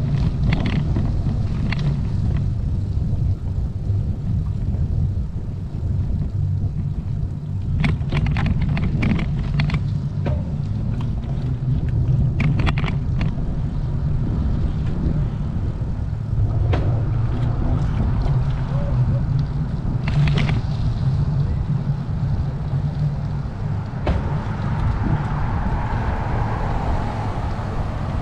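Wind buffeting the microphone of a moving bicycle, a steady low rumble, with scattered clicks and knocks.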